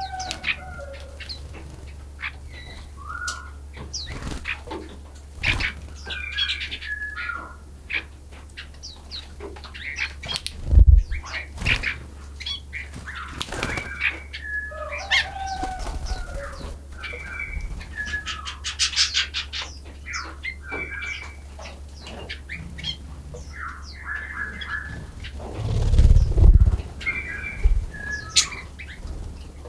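Several small birds chirping and trilling in short, overlapping calls, over a steady low hum. Two louder low thumps come about eleven seconds in and again near the end.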